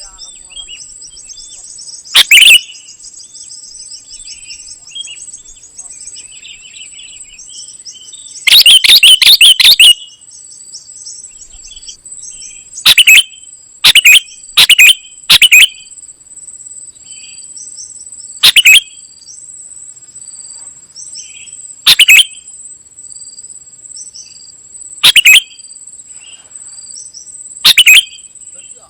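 Black-headed bulbul (kutilang emas) singing: loud, sharp short notes every few seconds, with a quick burst of them about nine seconds in, and a fast trill near the start. Under it runs a steady high drone.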